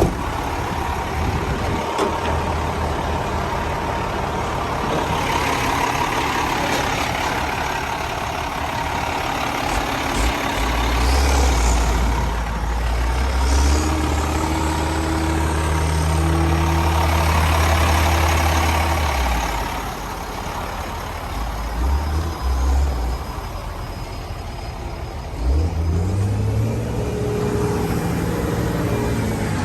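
Diesel engine of a 2006 International 7600 volumetric mixer truck running, its speed raised about a third of the way in and held for several seconds, dropping back, then climbing again near the end.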